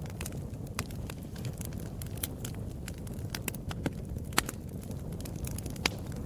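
Wood fire in a fireplace crackling, with irregular sharp pops over a low steady rumble of flame. The loudest pops come about four seconds in and again near the end.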